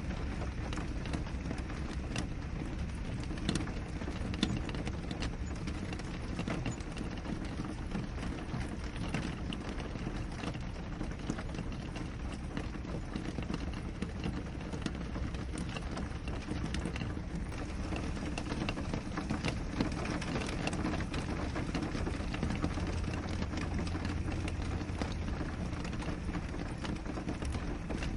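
Steady rain on a window: an even hiss scattered with many small taps of individual drops.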